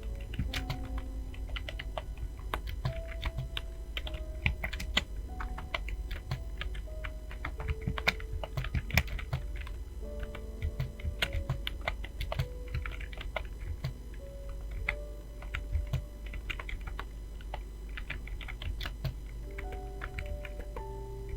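Fast, irregular typing on a computer keyboard, a dense run of key clicks, over soft background music with short held notes.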